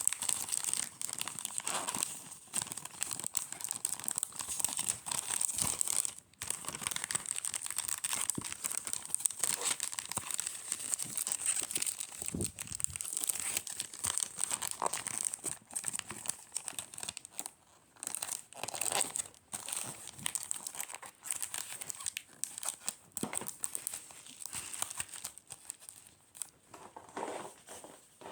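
Packaging material crinkling and rustling in continuous irregular crackles as it is handled, with tearing sounds now and then.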